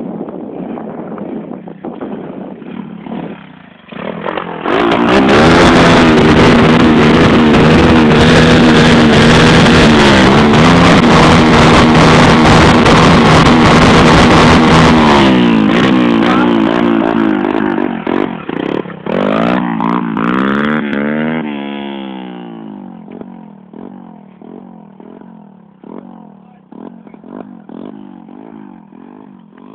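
A 125 cc dirt bike engine running at low revs, then revved hard about four seconds in and held at a high, steady pitch for about ten seconds, very loud. The revs drop about fifteen seconds in, rise and fall again around twenty seconds, then settle lower and fade.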